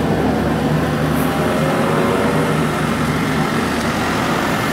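Nissan S13 Silvia drift car with a swapped-in Corvette V8 engine, idling steadily.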